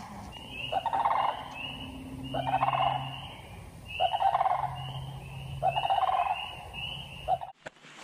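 Frogs calling from a pond: a pulsed, rattling croak repeats about every one and a half seconds over a quick run of short high peeps. It cuts off about seven and a half seconds in.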